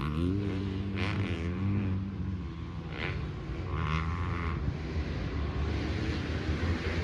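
Dirt bike engines running and revving, with a rise in pitch at the start and several short surges of throttle.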